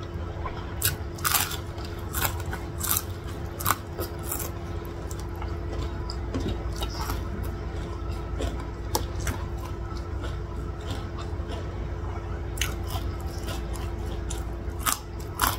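Close-miked eating sounds: chewing with frequent short crisp crunches from fried food eaten by hand, with a loud crunch near the end. A steady low hum runs underneath.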